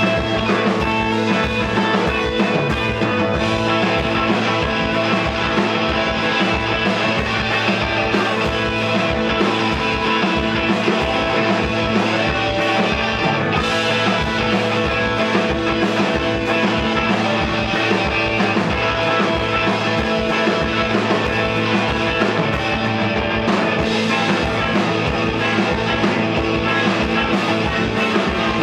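Live rock band playing loud, with electric guitar, a steady bass line and a fast, even drum beat.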